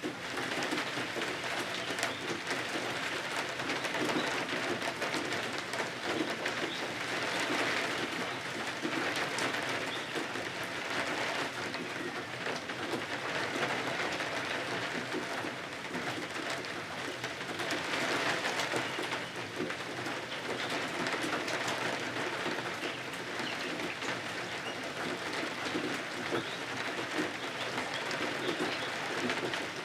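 Steady rain falling, a dense patter of drops that swells and eases every few seconds.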